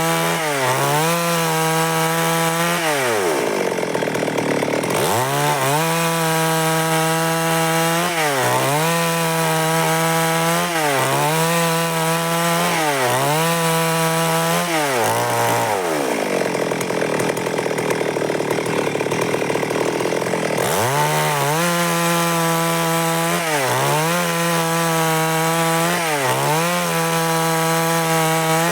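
Stihl MS 382 two-stroke chainsaw cutting wood at high revs, its pitch dipping and recovering about every two seconds. Twice, about three seconds in and again around sixteen seconds in, the pitch sinks for a few seconds and a rougher cutting noise takes over.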